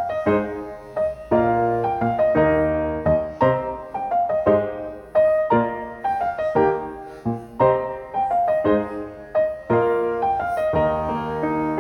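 Background piano music, with notes struck one after another and left to ring out.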